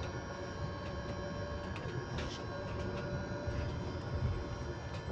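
Electric bus running, its electrical system giving off a steady whine at a constant pitch, made of several held tones, over the low rumble of the ride, with a few faint clicks.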